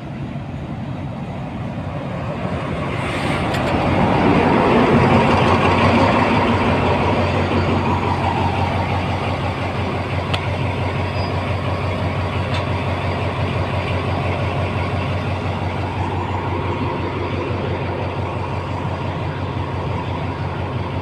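A State Railway of Thailand Alsthom diesel-electric locomotive runs past along the platform. Its engine grows louder to a peak about four to five seconds in, then gives way to the steady rumble of passenger coaches rolling by on the rails.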